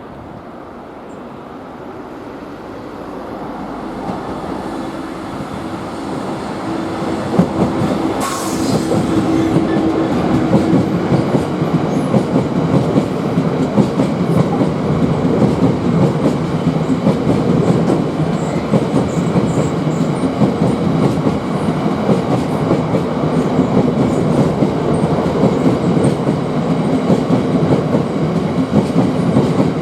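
A train approaching and passing, growing louder over the first ten seconds. Then a steady, rhythmic clatter of wheels over rail joints as the carriages or wagons go by.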